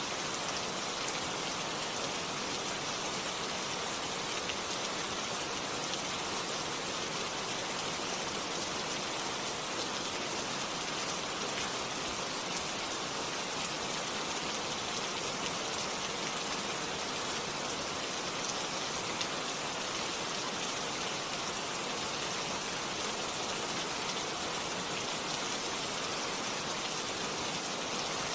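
Steady rain falling on a surface: an even hiss of many drops with faint individual drop ticks, unchanging throughout.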